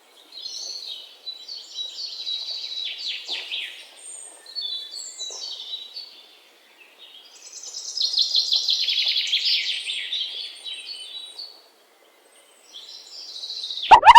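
Birds chirping and trilling in fast, high phrases, with short pauses twice. A loud rising musical sweep cuts in at the very end.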